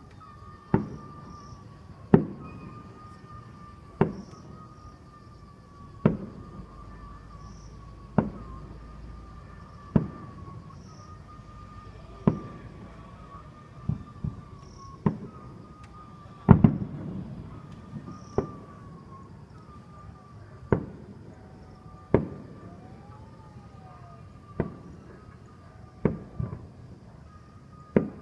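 Fireworks bursting: a sharp bang about every two seconds, each dying away quickly, the loudest about sixteen seconds in. A faint steady high tone runs underneath.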